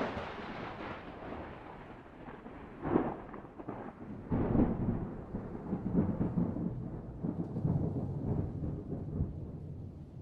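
Thunder: a sharp crack right at the start, then a long rolling rumble that swells again about three seconds in and about four and a half seconds in, still rumbling at the end.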